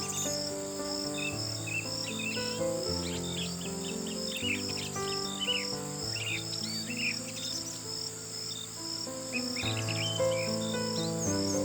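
Crickets chirping in a steady pulsing trill, with birds chirping on and off, over soft music of slow sustained chords.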